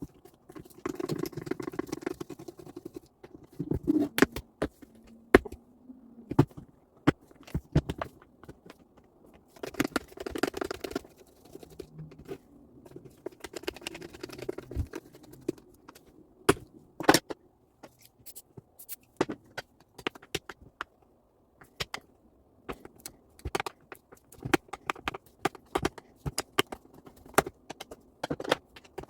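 Parts of a reciprocating saw and hand tools being handled during repair work: irregular clicks and taps of small parts, with a few short stretches of scraping or rubbing near the start, about ten seconds in and about fourteen seconds in.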